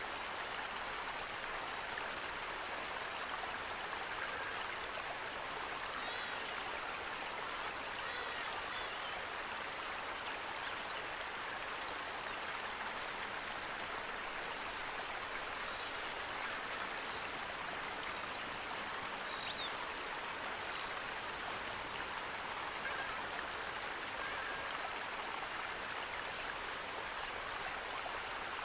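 Steady rush of running water, with a few faint short bird chirps now and then.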